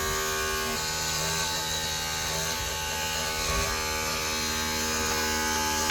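Electric hydraulic cab-tilt pump motor running steadily, a buzzing hum that holds an even pitch while it drives the truck cab's tilt.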